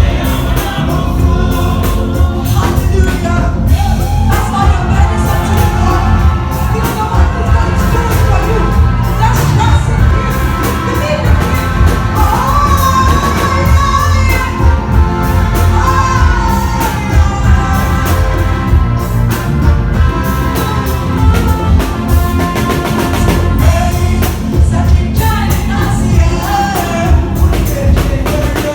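Congregation singing praise and worship songs over loud music with a strong, steady beat, with occasional shouts.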